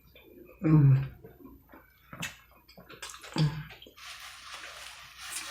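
Close-up eating sounds: two short low hummed mouth sounds, about a second in and again about three and a half seconds in, with small clicks between. From about four seconds in there is a steady wet hiss.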